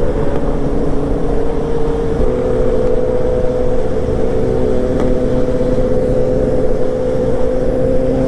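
Motorcycle engine running steadily at cruising speed while riding, its note holding almost level, over a constant low wind and road rumble.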